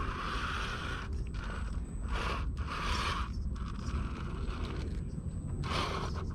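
Axial Capra RC crawler's electric motor and geared drivetrain whirring in short, repeated throttle bursts, stopping and starting several times as it crawls over rock.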